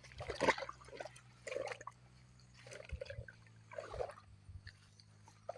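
Water splashing in short irregular bursts, about four times, as a fish trap holding a live tilapia is handled in the water.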